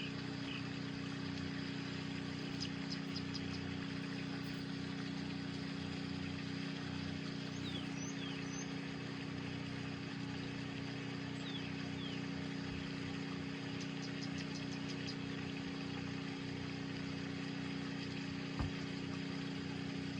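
Steady low machine hum with several even tones. Faint short high chirps come a few times, and a single light tap sounds near the end.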